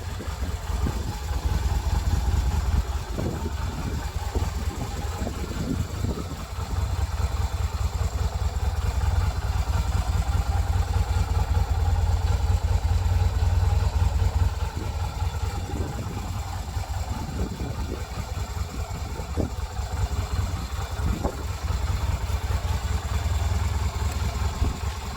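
Yamaha Virago 250's air-cooled V-twin engine idling steadily, with a low rumble.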